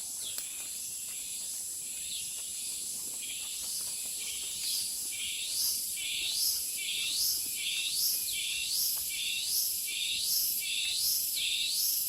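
Tropical forest insects: a steady high-pitched hum, joined about four seconds in by a repeated rising call, about one a second, that grows louder.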